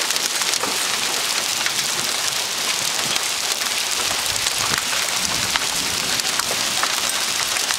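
Hail falling steadily in a dense hiss, with many small hard ticks of hailstones striking the ground and nearby surfaces, some of them big.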